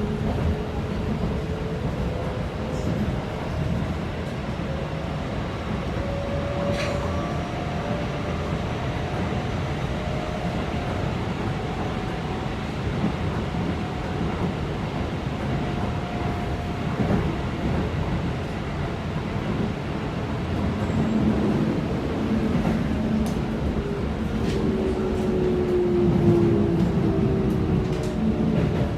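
Keikyu 600 series EMU heard from inside the car: Toyo GTO-VVVF inverter motor tones over the steady rumble of wheels on rail. The inverter tones climb in pitch in the first few seconds, then in the last third slide downward as the train brakes.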